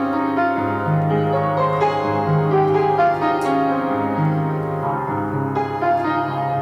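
Slow piano music: held, overlapping notes over a bass line that moves to a new note every second or two.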